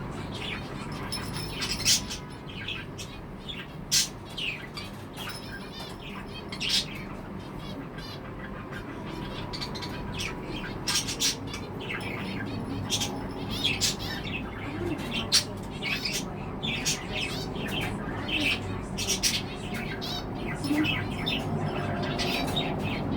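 Budgerigar chirping: many short, sharp chirps and squawks, a few louder ones early and thicker chattering through the second half.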